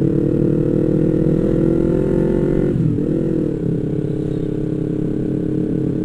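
Yamaha MT-25 parallel-twin motorcycle engine running under way, heard from the rider's seat. Its pitch climbs slowly, dips briefly about three seconds in, then holds steady.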